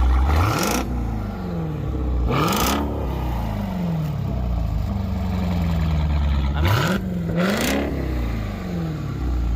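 Supercharged 6.2-litre Hemi V8 of a Dodge Durango Hellcat, breathing through a Borla ATAK exhaust, blipped from idle four times: once near the start, once about two seconds in, then twice in quick succession about seven seconds in. Each rev rises quickly and falls back to idle, and it is almost ear-piercing at the top.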